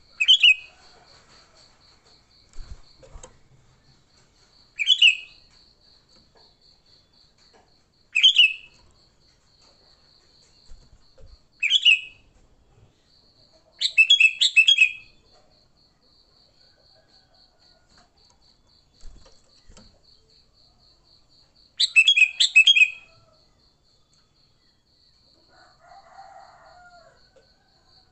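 Sooty-headed bulbul calling in short, loud, bubbly phrases every three or four seconds, with longer runs of notes about 14 and 22 seconds in. A faint, steady, pulsing trill sounds behind the calls.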